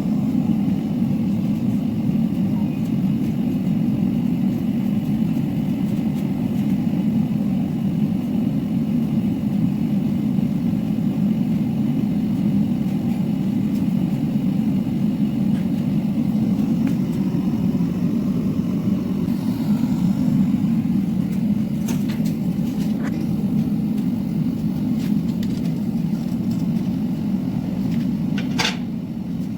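A steady low rumble, with a few sharp clicks in the last few seconds, one of them ringing briefly near the end.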